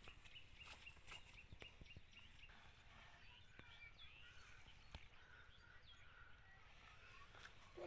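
Faint outdoor ambience: small birds chirping over and over, with a few soft clicks.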